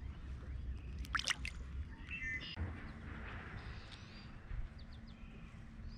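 Faint bird chirps over a low outdoor wind rumble, with a few quick sharp clicks a little over a second in.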